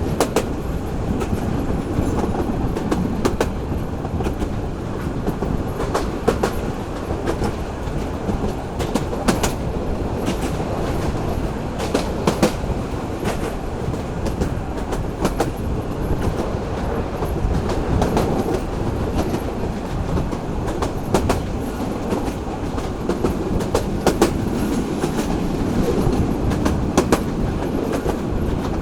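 Local passenger train running along the track: a steady rumble with sharp clicks of the wheels over rail joints at irregular intervals.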